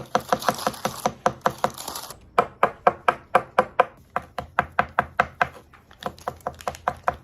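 Small toy hammer tapping rapidly at a gold-bar dig kit's excavation brick, about four to five sharp strikes a second, with a brief pause about two seconds in.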